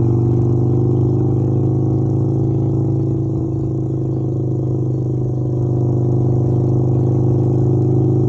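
Harley-Davidson V-twin motorcycle engine running at a steady cruise under way, its note holding almost constant with a slight easing near the middle.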